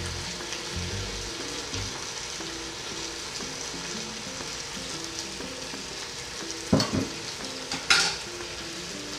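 Pork, onion and banana peppers sizzling as they stir-fry in a hot nonstick wok, a steady frying hiss. Two brief knocks sound near the end.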